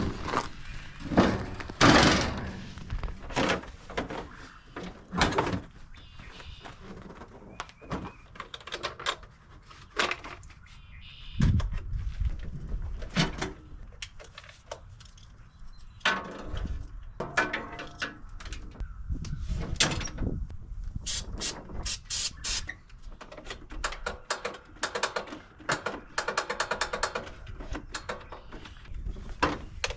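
Metal trailer ramps being lowered and handled: irregular clanks, knocks and rattles, some of them ringing.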